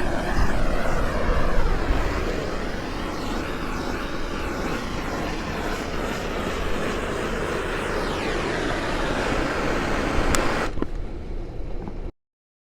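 Handheld gas torch flame rushing steadily as it is passed around a cold refrigerant tank to warm it and raise its pressure for charging. Near the end the high hiss fades, then the sound stops suddenly.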